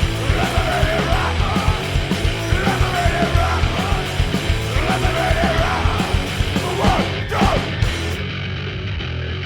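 Punk rock song: a yelled lead vocal over distorted guitar, bass and drums. The vocal and cymbals stop about eight seconds in, leaving the band's guitar sound.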